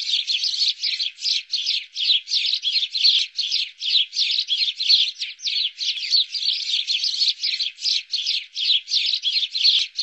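Bird chirping rapidly: a continuous run of short, falling chirps, about three a second.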